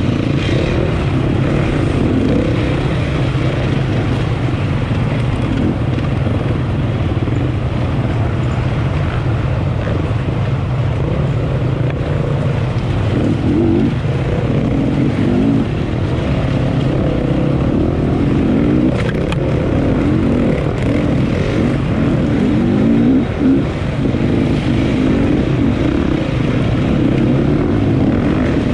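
Enduro motorcycle engine running steadily under load. In the second half its pitch rises and falls again and again as the revs change.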